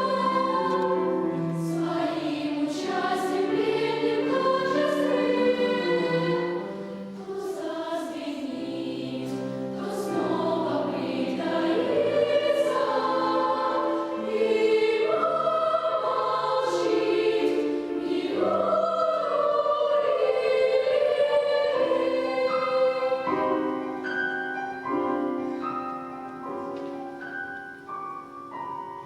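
Children's choir singing a song in Russian with piano accompaniment, many voices holding and moving between sustained notes; the singing thins out and grows quieter over the last few seconds.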